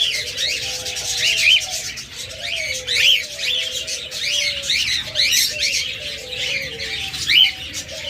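Many caged pet birds calling at once: a dense chatter of short, sharp chirps and squawks, with lower, longer notes running underneath.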